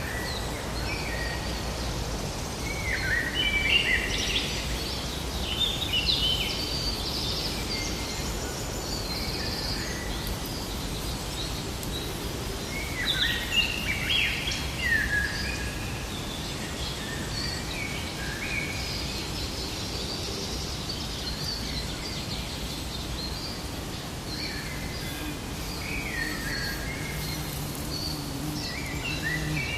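Forest ambience: several songbirds chirping and warbling in bursts over a steady low rumble and hiss.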